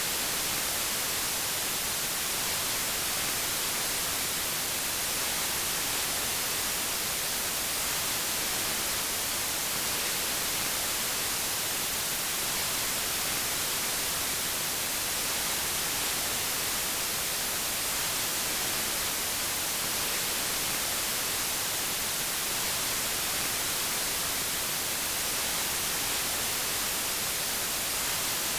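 Steady, unchanging white noise: an even hiss, brightest in the treble.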